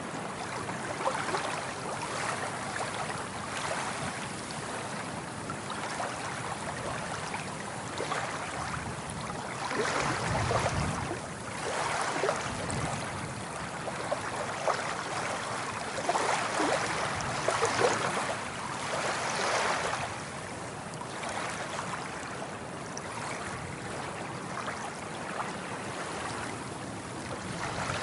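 Sea waves washing in, a steady rushing surf that swells louder now and then, most around the middle of the stretch.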